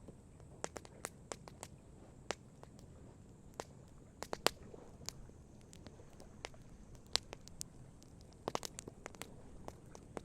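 Wood campfire crackling: irregular sharp pops and snaps, with a quick cluster about four seconds in and another about eight and a half seconds in.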